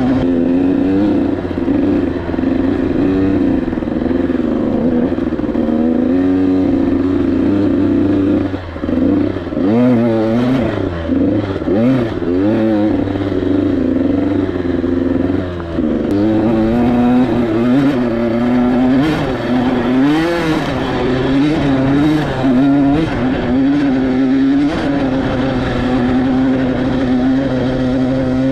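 A KTM 85SX's two-stroke single-cylinder engine being ridden, its pitch rising and falling over and over as the throttle is opened and rolled off. It briefly drops away about nine seconds in and again around sixteen seconds before picking back up.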